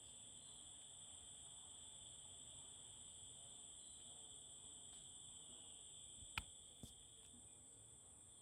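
Faint, steady insect chorus: a continuous high trill at two pitches. A sharp click comes about six seconds in, with a softer one just after.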